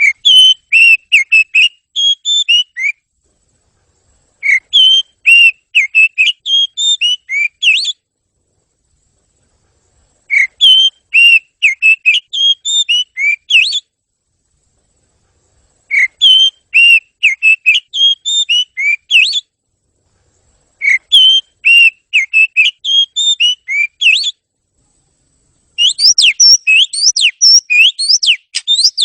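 Oriental magpie-robin (kacer) song: phrases of quick, clear whistled notes, each about three seconds long, broken by short silent gaps. The last phrase, near the end, comes faster and denser.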